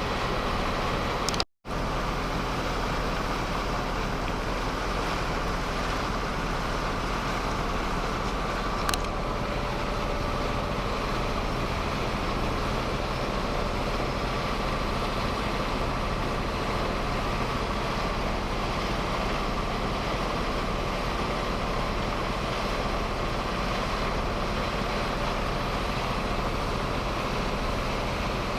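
Boat engine running steadily, heard from aboard the boat. The sound cuts out for a split second about a second and a half in, and there is a single sharp click about nine seconds in.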